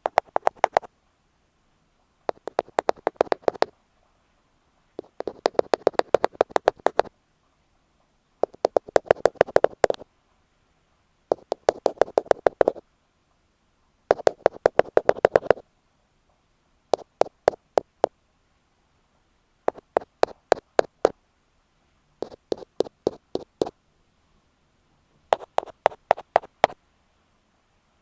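An ear pick tapping rapidly on an earphone microphone, close up, in runs of quick sharp taps about one to two seconds long with short silent gaps between, about ten runs. The later runs have fewer, more spaced-out taps.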